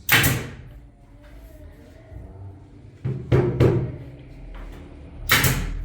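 Four loud knocks of hard objects: one at the start, two close together about three seconds in, and one near the end.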